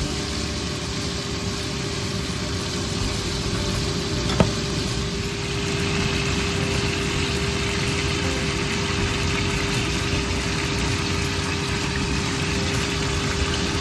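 Chicken livers in thick adobo sauce sizzling steadily in a nonstick pan over a steady hum, with one small click about four seconds in.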